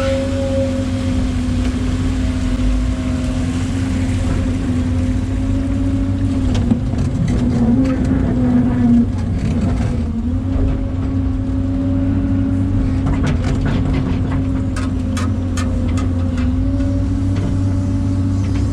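Excavator's diesel engine running steadily at working speed, its pitch sagging briefly a few times as the hydraulics take load. A run of sharp clanks and knocks comes about two-thirds of the way through.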